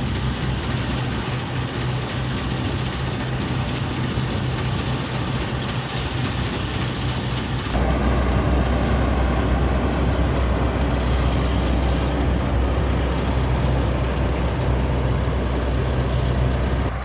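Fortschritt E514 combine harvester's diesel engine running steadily as it cuts, a continuous heavy drone. It gets louder and deeper suddenly a little under halfway through.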